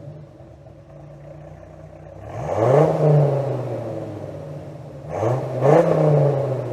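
Dodge Viper V10 idling, then revved twice in quick throttle blips, the pitch rising sharply and falling back to idle each time.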